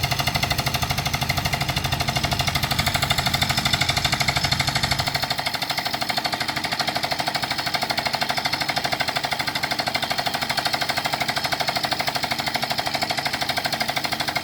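Rapid impact air hammer pounding an Eco Pile into the ground in a fast, steady hammering rhythm as the pile sinks foot by foot. A low hum beneath the blows drops away about five seconds in.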